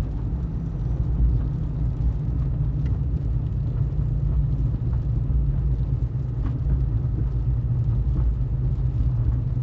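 Car heard from inside the cabin as it is driven slowly over snow, a steady low rumble of engine and tyres with a few faint ticks.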